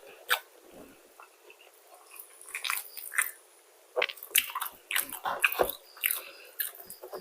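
Close-up eating: a person biting and chewing crispy McDonald's fried chicken, irregular sharp crunches and mouth clicks, a burst about three seconds in and a denser run from about four seconds on.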